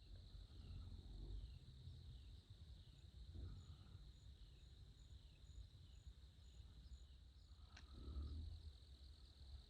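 Faint outdoor ambience: a steady high insect drone with a run of short falling chirps about twice a second, over a low rumble, and a single soft click near the end.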